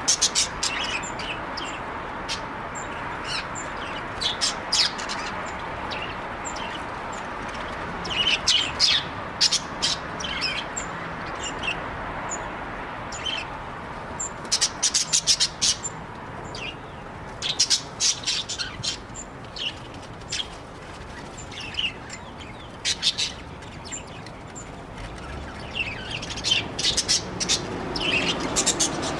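Budgies chirping in short, high, quick calls that come in bursts, busiest about eight to ten seconds in, around fifteen seconds in and near the end, over a steady background hiss.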